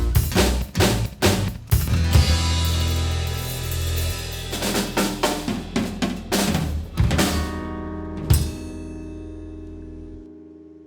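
A rock band ends a song. The drums play fills with snare and bass drum, and a roll builds to one last hit about eight seconds in. The final chord then rings on and fades away.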